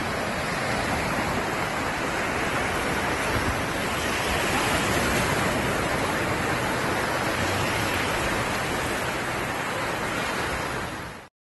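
Steady wash of ocean surf breaking on the beach, an even noise with no distinct events, which cuts off suddenly near the end.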